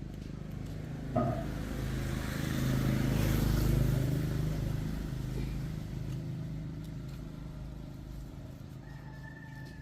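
A motor vehicle engine running with a steady low hum that swells louder through the middle and fades again, with a single sharp click a little over a second in.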